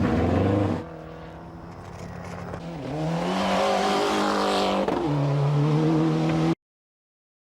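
Rally car engine: a loud engine note breaks off about a second in, then a quieter engine grows louder and rises in pitch as it accelerates, with a gear change near five seconds. The sound cuts to silence about a second before the end.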